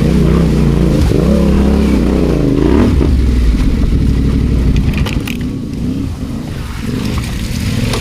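Adventure motorcycle engine on an off-road green lane, its pitch rising and falling with the throttle for the first three seconds, then running lower and rougher. A few sharp clicks come about five seconds in.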